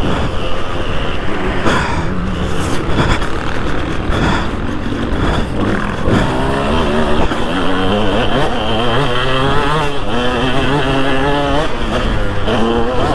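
Two-stroke 2003 KTM 200 SX motocross engine revving hard and backing off again and again as the bike is ridden around the track, its pitch rising and falling.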